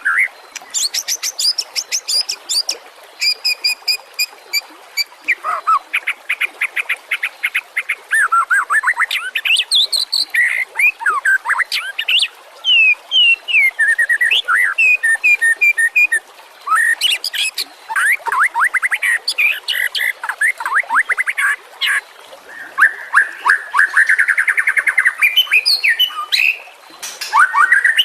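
White-rumped shama (murai batu) singing a long, varied song: clear sweeping whistles, fast rattling trills and quick chattering note runs, phrase after phrase with short pauses between.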